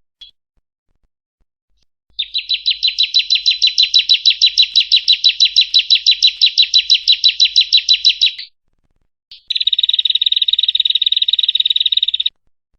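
Female bar-winged prinia (ciblek) calling: a fast, even series of sharp chip notes, about seven a second for some six seconds. After a short pause comes a quicker, buzzier trill near the end.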